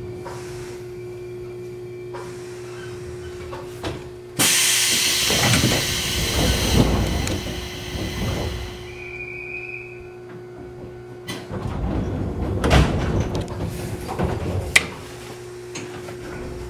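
Electric commuter train standing at a platform with a steady hum from its equipment. About four seconds in, a sudden loud hiss starts and lasts some four seconds, with low thumps under it. Later come clattering and one sharp click.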